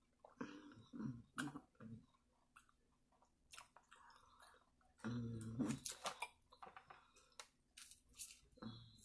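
A person chewing food in irregular quiet bursts, with the loudest stretch about five seconds in.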